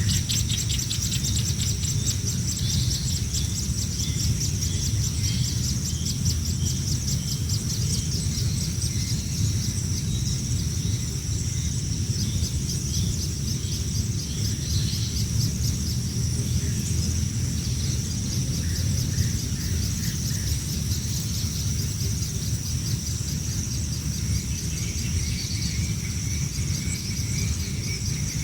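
Birds chirping in short repeated series, a few seconds in and again near the end, over a steady high, fast-pulsing insect trill like crickets and a low steady rumble.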